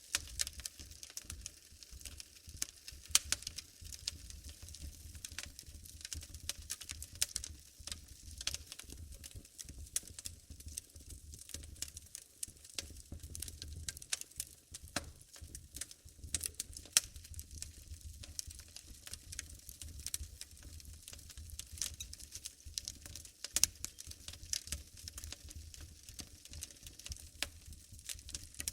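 Wood fire burning in a fireplace, crackling with dense, irregular snaps and pops over a low steady rumble. A few pops stand out much louder than the rest.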